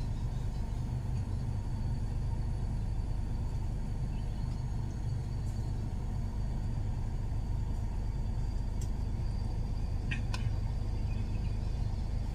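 Steady low rumble of a vehicle engine idling, heard from inside the cabin, with a couple of faint clicks about ten seconds in.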